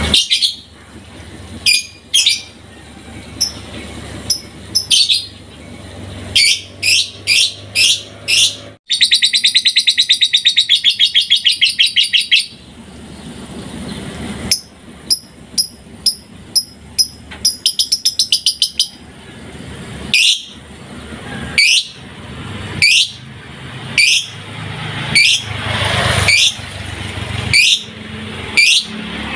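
A pet songbird singing: loud, sharp notes that fall in pitch, repeated about once a second, broken by a rapid trill lasting about three seconds and a later quick run of notes.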